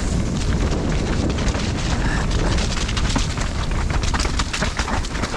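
Mountain bike riding down a muddy trail: a steady low rumble of wind buffeting the microphone, with rapid clattering and rattling from the bike and tyres over bumps.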